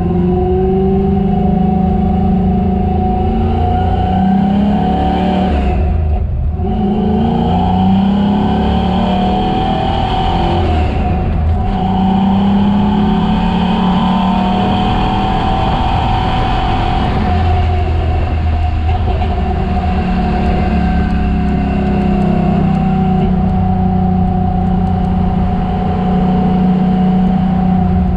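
Chevrolet Chevelle's engine running hard on a race track, its pitch climbing and falling with the throttle, with two brief breaks in the engine note about six and eleven seconds in.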